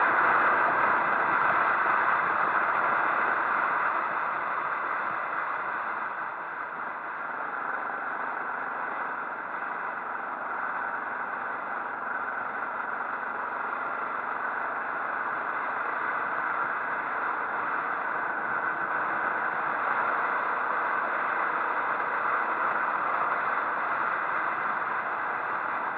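Steady rush of wind and road noise from a moving motorcycle, with the engine running faintly underneath.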